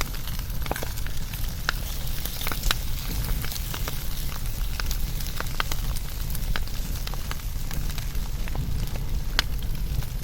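Wood fire burning: a steady low rumble of flames with sharp, irregular crackles and pops from the burning wood.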